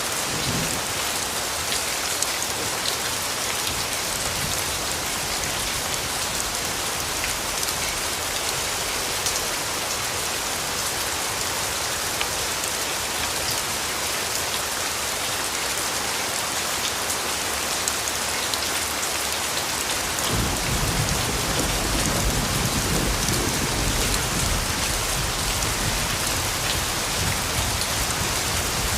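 Steady rainfall pattering on surfaces, with a low rumble of distant thunder coming in about two-thirds of the way through.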